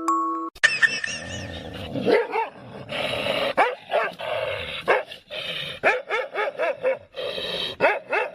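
A dog barking and yelping in a long, rapid run of short calls that rise and fall in pitch. A short music-box tune cuts off just after the start.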